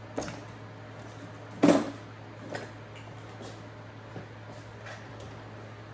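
Plastic case of a socket drive accessory set being handled and opened: a click near the start, a loud hard clack about a second and a half in, then lighter clicks and knocks of the lid and contents.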